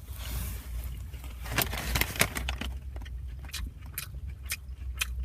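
A person biting into and chewing a wrap filled with crispy chicken. A soft rustle comes in the first second, then many short crunchy clicks, over a steady low hum.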